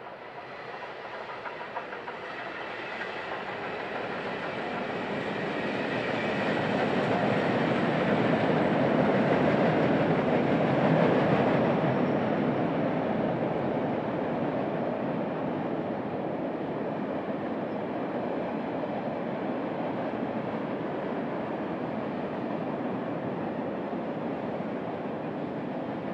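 Union Pacific Big Boy 4014's train passing by. The rolling rumble builds to its loudest about ten seconds in, eases off, then holds at a steady, lower level.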